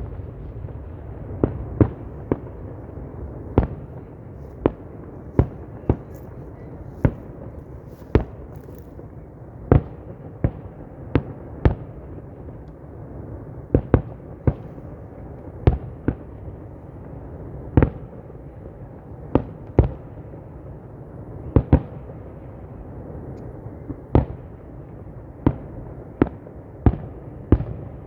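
Fireworks display: aerial shells bursting in a string of sharp bangs at irregular intervals, roughly one a second, over a steady background rumble.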